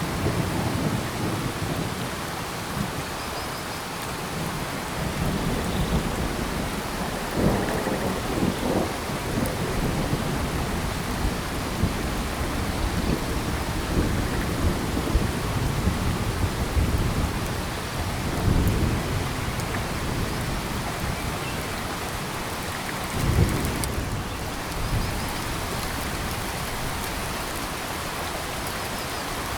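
Steady rain falling in tropical forest, an even hiss of drops, with short low rumbles swelling up several times.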